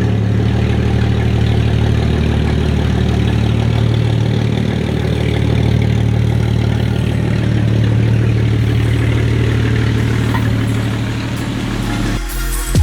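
Jeep Cherokee XJ engine idling steadily. Background music comes in near the end.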